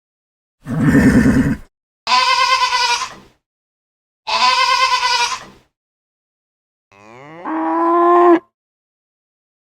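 Farm animals calling: three short calls about a second apart, the second and third bleats, then a longer cow moo near the end that rises in pitch and loudness.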